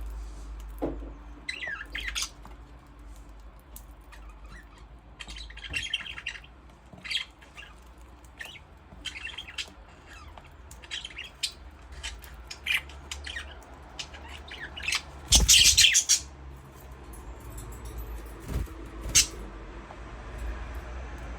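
Budgerigars chirping and chattering in short scattered calls, with a louder burst of harsh squawking about two-thirds of the way through.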